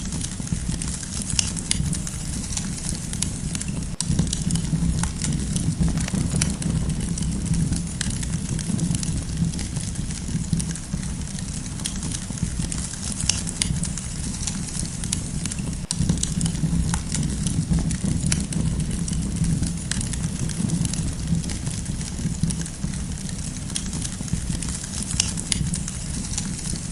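Wood campfire crackling, with frequent sharp pops and snaps over a steady low rumble of burning.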